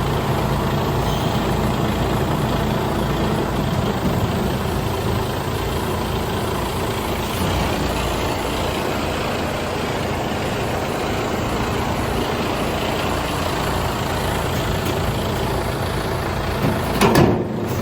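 Mercedes-Benz Arocs 2648 tipper truck's diesel engine idling steadily, with a brief louder burst about a second before the end.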